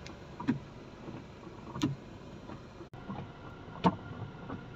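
Inside a moving vehicle: a steady low hiss with a few short soft knocks at uneven intervals.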